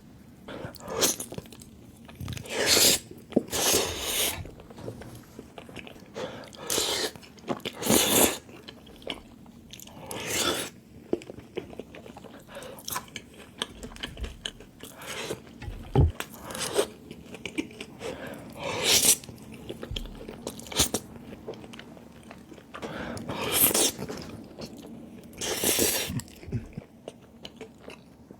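Close-miked eating: a series of loud crunchy bites and chewing, with irregular crunches every second or two.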